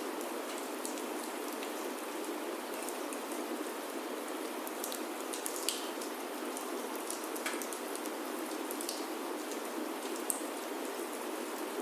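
Steady rain falling on a wooden chalet roof, an even hiss with a few scattered sharp ticks.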